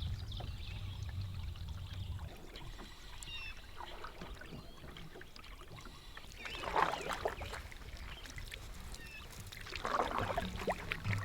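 Canoe paddle strokes in lake water: two splashy swishes of the paddle, about three seconds apart, with quiet lapping water between them.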